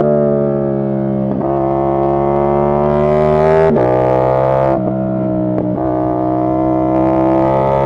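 CF Moto 450SR S motorcycle's parallel-twin engine running under load, a steady drone whose pitch climbs slowly. It is broken several times by short clicks where the pitch steps and picks up again.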